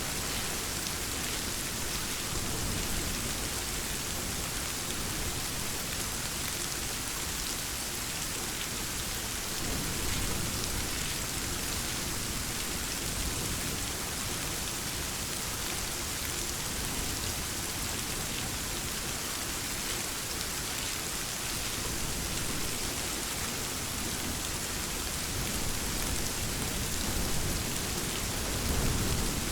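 Steady heavy rainfall, a dense even hiss of drops, with low rumbles of distant thunder swelling about ten seconds in and again near the end.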